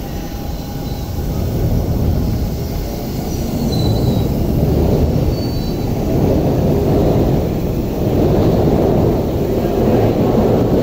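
Electric commuter train running on the tracks: a steady rumble of wheels on rails that grows louder about two seconds in, with a few faint high wheel squeals in the middle.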